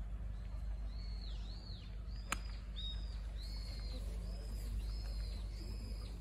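A bird singing a run of repeated short arched, chirping notes, about one every half second or so, with a single sharp click a little over two seconds in.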